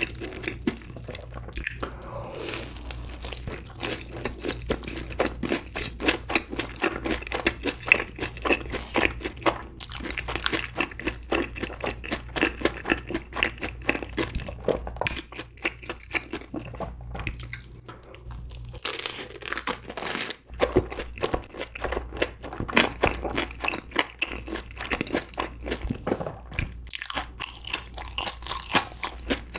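Close-miked chewing of a crispy breadcrumb-coated corn dog covered in cheddar cheese sauce: continuous crunching made up of many small crackles.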